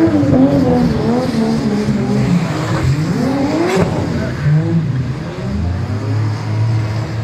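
Two drift cars' engines revving hard and falling back repeatedly as they slide in tandem, with a sharp crack about four seconds in. Engine notes settle lower near the end.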